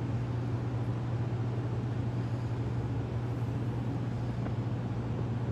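Steady low hum under an even hiss, unchanging in level.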